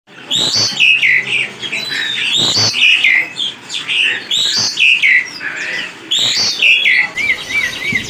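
A caged bird calling loudly: a short call falling in pitch, repeated about every two seconds, then a quick wavering trill near the end.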